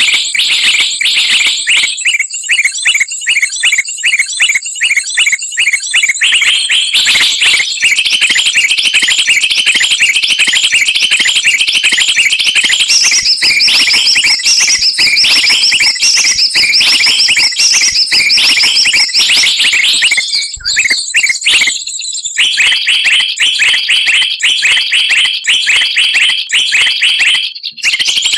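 Recorded bird-lure calls: dense, loud, high-pitched chirping and trilling from small songbirds, rapid repeated notes whose pattern changes every few seconds, with brief breaks about two-thirds of the way in and near the end.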